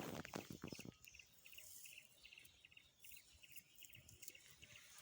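Faint high chirping, a short pulsed chirp repeated evenly about two to three times a second, with a few soft rustles in the first second.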